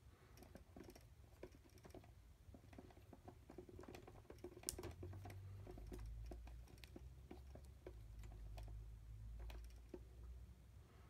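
Quiet, irregular light clicks and taps, like small plastic parts being handled, with a low steady hum from about five seconds in.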